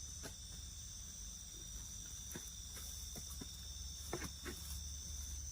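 Night insects, crickets among them, calling in a steady high-pitched drone, with a few faint clicks and knocks scattered through it.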